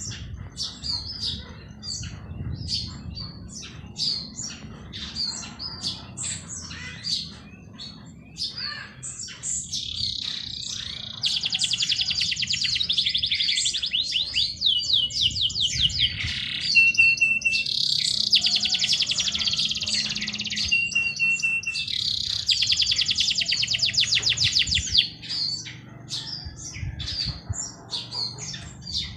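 Several songbirds chirping with many short high calls. From about ten seconds in until about twenty-five seconds, long rapid trilled songs run almost without a break.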